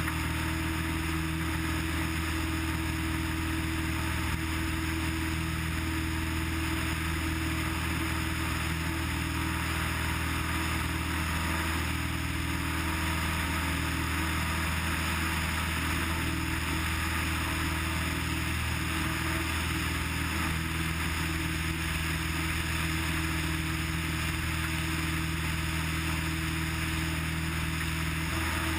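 Cessna 180's six-cylinder piston engine and propeller droning steadily in the cockpit, with no change in power.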